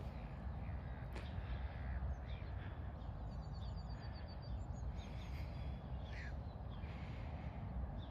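Open-air ambience: a steady low rumble with birds calling faintly, a quick run of high chirps about three seconds in and a falling call around six seconds.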